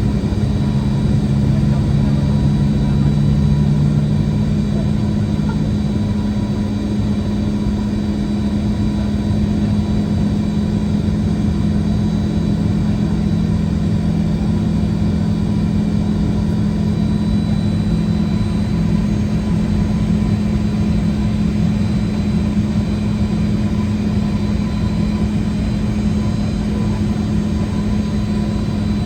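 The Boeing 717's rear-mounted Rolls-Royce BR715 turbofans run at ground idle before takeoff, heard inside the cabin near the tail as a steady hum with a few fixed tones. One lower tone shifts slightly in pitch about six seconds in.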